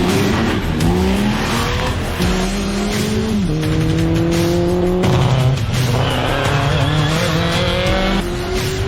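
Car engine accelerating hard through the gears: the revs climb steadily and fall back at each upshift, about three times.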